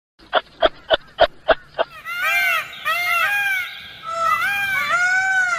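Animal calls: a quick run of short, sharp calls, about three a second, then from about two seconds in many overlapping calls that rise and fall in pitch, as from several animals calling together.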